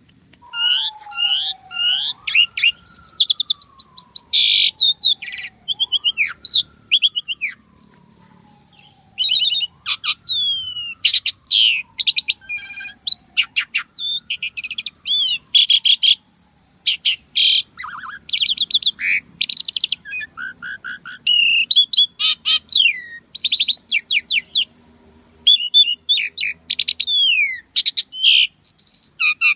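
Asian pied starling singing a busy, continuous song of rapid chattering, whistled and clicking notes that rise and fall, most of them high-pitched. Beneath it, in the first half, a fainter lower tone slides up and then slowly down, about every four seconds.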